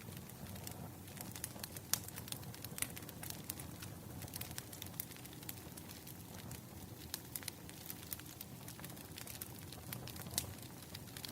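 Firewood burning: irregular crackles and sharp pops over a low steady rumble, with louder pops about two seconds in and near the end.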